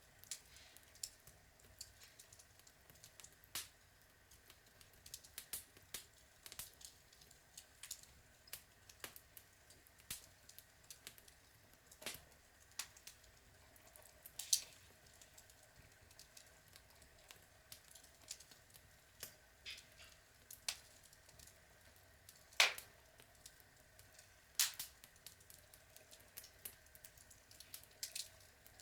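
Outdoor log fire crackling: irregular sharp pops and snaps from the burning logs over a faint hiss, with a couple of louder cracks about halfway and two-thirds of the way through.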